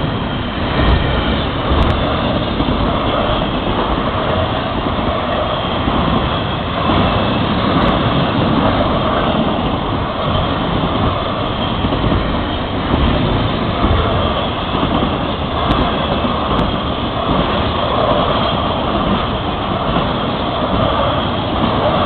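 Freight train's cars rolling past close by: a steady, loud rumble of steel wheels on rail.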